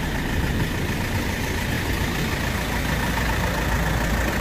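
Diesel delivery truck's engine idling steadily at close range, with a faint steady whine above the low rumble; the refrigeration unit is not running.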